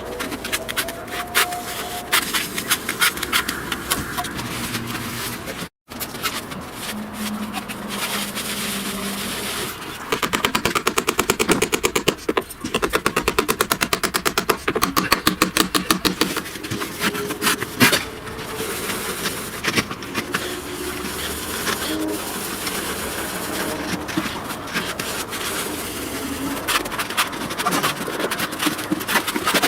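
House renovation work: a jumble of knocks, scraping and clatter from tools and building materials, with a fast run of rapid blows lasting several seconds about a third of the way in. The sound cuts out for an instant about six seconds in.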